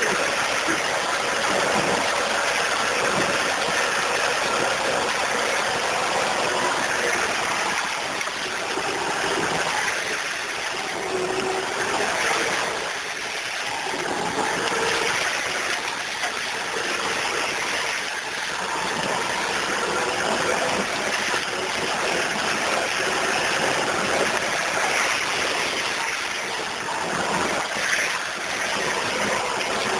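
Vehicle driving slowly over a muddy, rutted dirt road: the engine runs with a faint steady hum under a continuous rushing, water-like noise that swells and eases gently.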